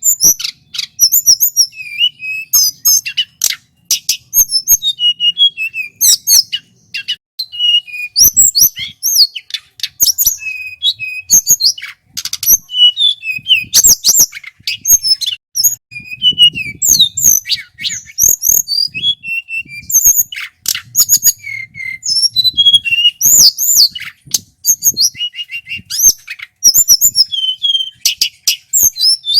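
Male tledekan gunung singing loud and without a break: quick high chirps, whistled notes and sharp clicking notes in varied phrases, separated by only brief pauses.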